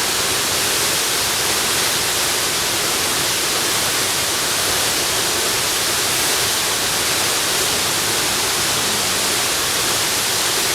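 Waterfall rushing in a steady, even hiss with no breaks, strongest in the high range.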